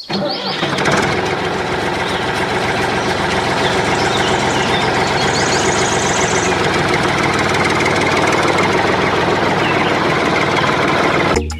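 An engine running steadily at idle with an even, knocking beat. It starts just after the beginning and cuts off near the end.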